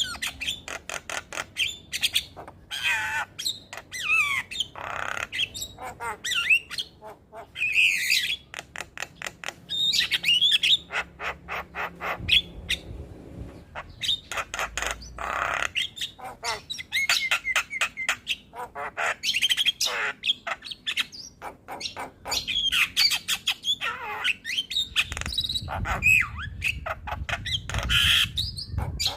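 Javan myna (jalak kebo) song: a fast, varied chatter of rapid clicking rattles, gliding whistles and harsh squawks.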